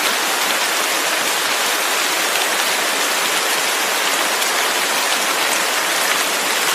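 Steady rain: a dense, even hiss of falling rain with faint ticks of individual drops.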